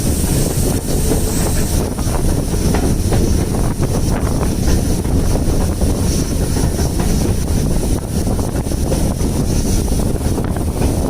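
Wind buffeting the microphone over the steady rumble of a moving train carriage.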